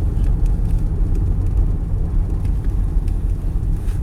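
Low, steady rumble of a car's engine and tyres heard from inside the cabin as it drives slowly through snow, with faint scattered ticks.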